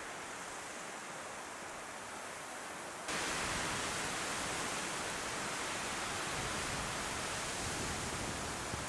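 Strong wind blowing, a steady hiss of air with no other distinct sound. About three seconds in it becomes suddenly louder, with more low rumble of wind on the microphone.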